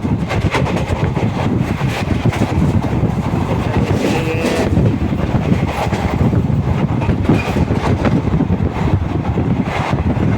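Train running along the track: a loud, steady rumble with the wheels clacking over rail joints.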